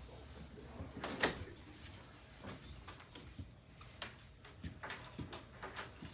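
Scattered knocks and clicks, one louder knock about a second in, then a run of smaller ones near the end.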